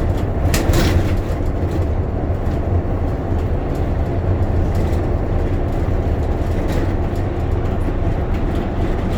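Steady engine and road rumble heard inside a moving bus's cabin, with small rattles now and then.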